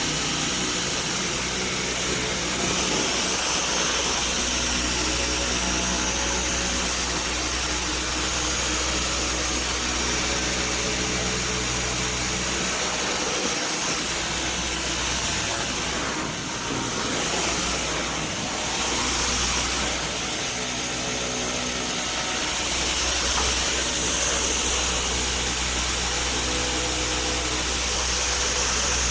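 Vacuum cleaner running steadily: a continuous motor drone with a thin, steady high whine, its level dipping briefly a little past the middle.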